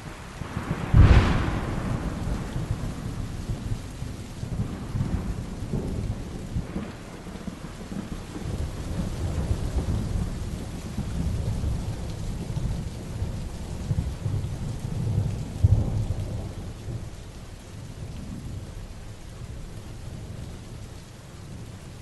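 Heavy rain with thunder: a sharp crack about a second in, then long low rumbling that swells again about fifteen seconds in and dies down toward the end, over the steady hiss of rain.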